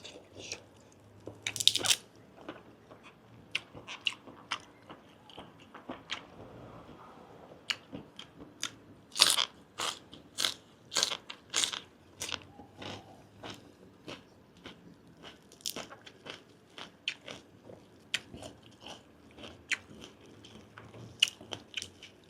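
Close-miked chewing and biting of grilled giant octopus tentacle: irregular wet smacks and crunchy clicks, several a second at times, with no pause for speech.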